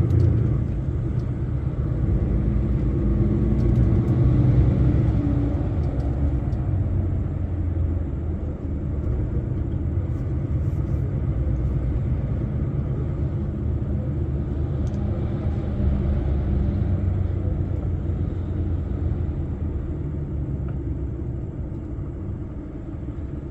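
Heavy truck driving at motorway speed: a steady low rumble of engine and road noise, easing off slightly near the end.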